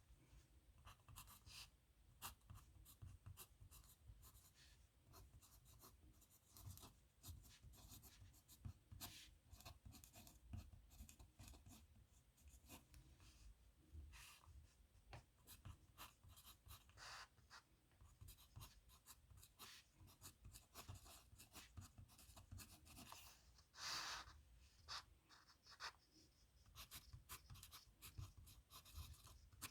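Dip nib pen scratching on paper in faint, irregular short strokes of handwriting, with one longer stroke about 24 seconds in.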